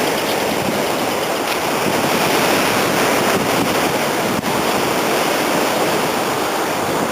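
Strong wind and sea surf: a steady, even rush of noise.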